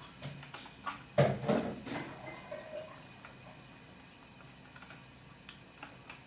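Short clicks and knocks of hand tools and plastic socket parts being handled during fitting of an electrical wall socket, a quick cluster in the first two seconds with the loudest knock just after a second in, then only faint ticks.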